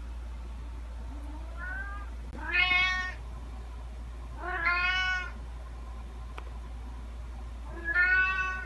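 Domestic cat meowing: three loud drawn-out meows a couple of seconds apart, after a fainter rising call, over a steady low hum.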